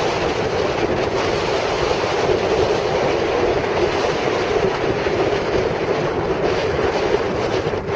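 Steady wind noise buffeting the microphone, a loud, even rushing with no let-up.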